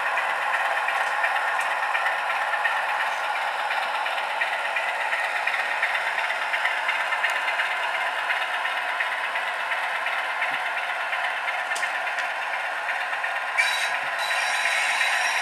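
OO gauge model diesel locomotive running, its DCC sound decoder playing a steady diesel engine sound through a tiny speaker, with light clicks and rattles.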